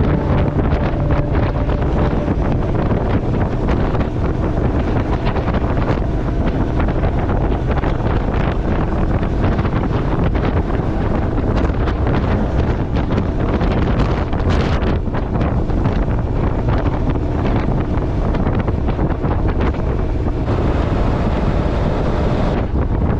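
Steady, loud wind rushing over the microphone of a motorcycle travelling at speed, with road and engine noise underneath.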